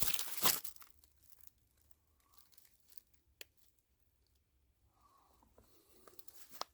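A short burst of rustling, crinkling noise in the first second. Then it goes nearly quiet, with a single sharp click about three and a half seconds in.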